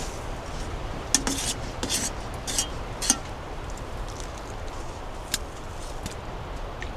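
A spoon clinking and scraping against a dish as oatmeal is stirred and served: a handful of short clicks and scrapes, most of them in the first three seconds and one more about five seconds in.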